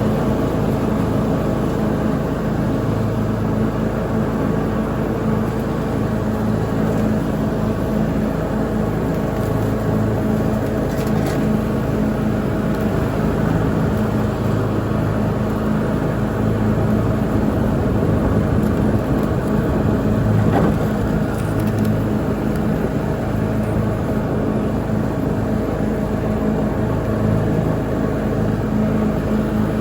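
Lawn mower engine running at a steady speed during mowing.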